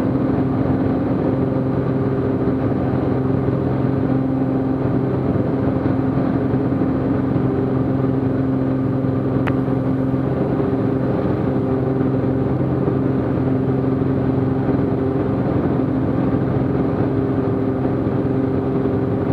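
Cessna T210's turbocharged six-cylinder engine and propeller running steadily in the climb, a constant even drone, with one brief click about halfway through.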